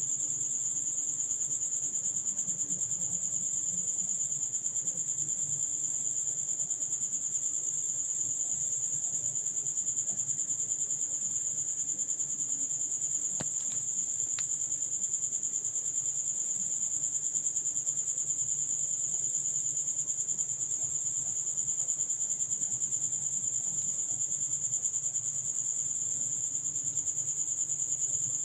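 Continuous high-pitched, cricket-like trill, pulsing rapidly and evenly without a break, with a couple of faint clicks about halfway through.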